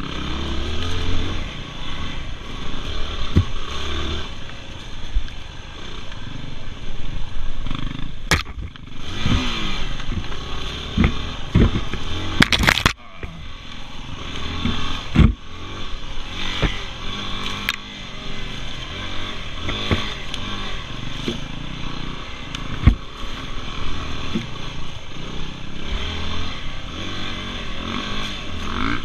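Dirt bike engine being ridden hard, its revs rising and falling as the throttle is opened and closed, with sharp knocks now and then.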